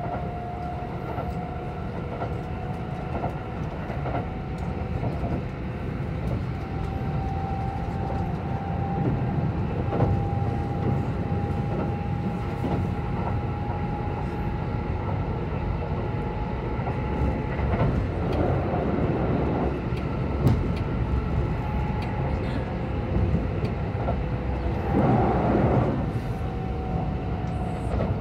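Kintetsu 22000 series electric train running, heard from inside the passenger car: a steady rumble of wheels on rail, a faint traction-motor whine that drifts slowly in pitch, and a few rail-joint clicks. Two short, louder rushes of noise come about two-thirds of the way through and near the end.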